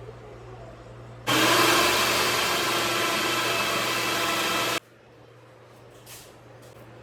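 A small electric kitchen appliance motor runs loudly for about three and a half seconds, switching on and off abruptly, with a steady whirring hum.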